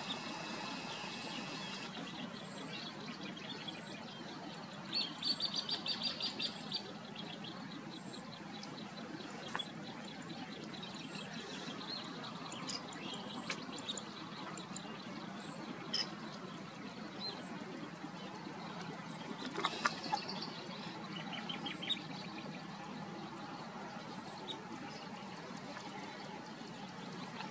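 Small birds chirping over a steady outdoor background hiss, with a fast, rattling trill about five seconds in and another short burst of calls around twenty seconds in.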